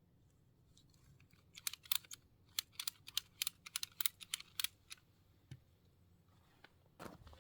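A quick, irregular run of about a dozen sharp clicks or taps over three seconds, followed near the end by a short rustling clatter.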